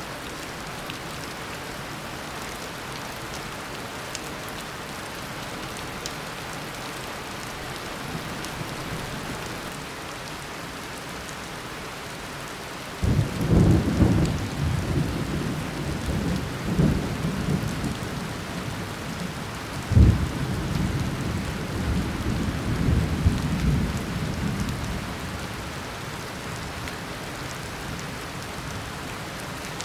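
Steady heavy tropical rain falling, with two loud rumbling peals of thunder, the first cracking in about halfway through and the second about seven seconds later, dying away after a few seconds.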